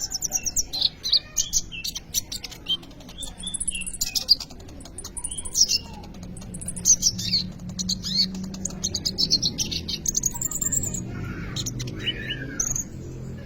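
A kolibri ninja sunbird singing vigorously: a busy run of quick, high chirps, twitters and short trills, over a faint low hum that grows louder about halfway through.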